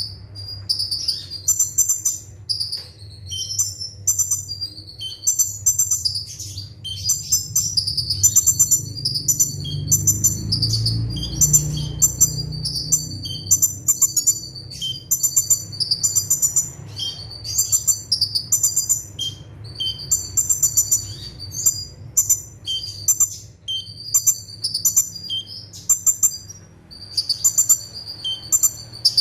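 Kolibri ninja (konin) sunbird singing a fast, dense 'nembak' song: rapid clusters of very high, thin chirps, several a second, in phrases that run on with short breaks. A faint low hum sits underneath and swells briefly in the middle.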